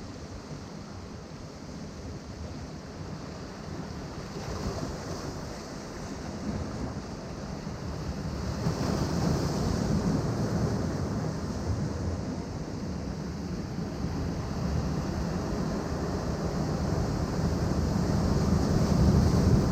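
Ocean waves breaking and washing against shoreline rocks in a continuous surging rumble, swelling louder about halfway through and again near the end, with wind buffeting the microphone.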